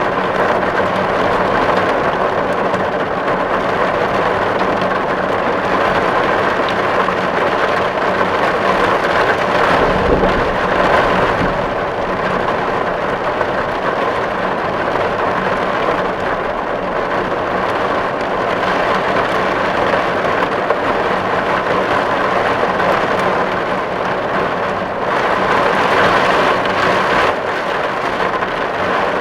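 Steady heavy rain falling on a tin roof, a dense patter of drops on metal, with a brief low rumble about a third of the way through.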